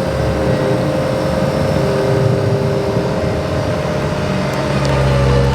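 Tractor engine running steadily while carrying a big log, its note shifting a little and growing slightly louder near the end.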